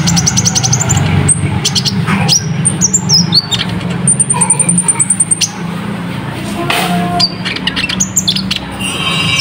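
Ruby-cheeked sunbird (kolibri ninja) singing a dense, fast song of high chirps, short trills and a rapid ticking run, over a steady low hum.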